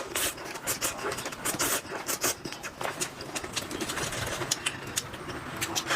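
Close-miked eating sounds: a fast, irregular run of wet clicks and crackles from chewing and mouth noises.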